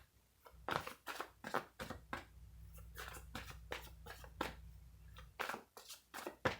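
Tarot cards being shuffled and handled, a run of short, irregular card snaps and rustles, with a low hum under them for a few seconds in the middle.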